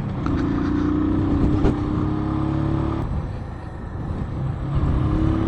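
Keeway Cafe Racer 152's single-cylinder engine pulling under acceleration while riding, its pitch rising steadily. The revs drop about three seconds in and pick up again near the end.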